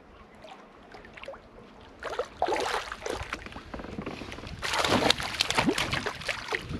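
A hooked fish thrashing and splashing at the water's surface beside a canoe, in ragged bursts starting about two seconds in and loudest near the end.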